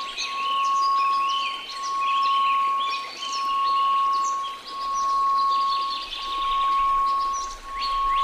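Steady 1098 Hz pure tone that swells and fades about every one and a half seconds, over a soft hiss of noise, with birdsong chirps layered above it.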